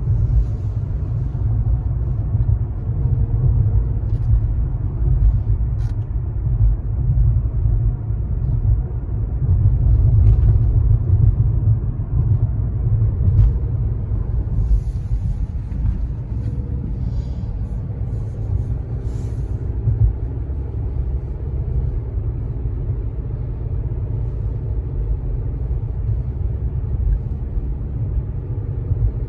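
Steady low rumble of a car driving, tyre and engine noise heard from inside the cabin, with a few faint clicks.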